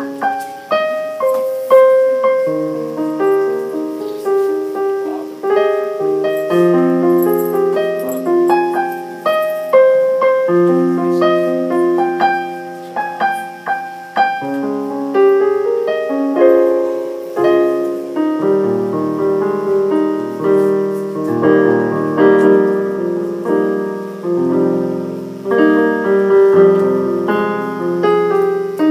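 Piano music: a slow melody over held chords, played without a break.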